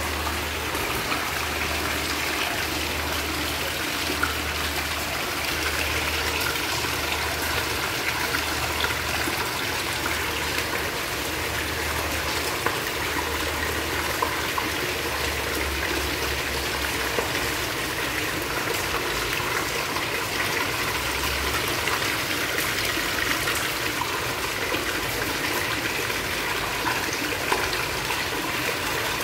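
Heavy rain falling steadily, with rainwater pouring from a plastic drainpipe and splashing onto the tiled floor, and scattered drops tapping.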